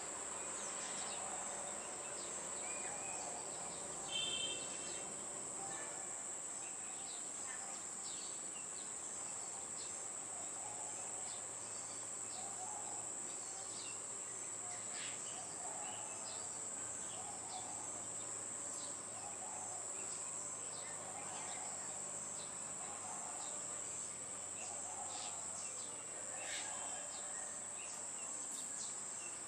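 Steady high-pitched insect drone, with scattered short bird chirps; the loudest chirp comes about four seconds in.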